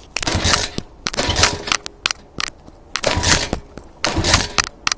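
Evo 140 pit bike being kick-started: four kicks, each turning the engine over briefly without it catching. The fuel tap is off, so it will not fire.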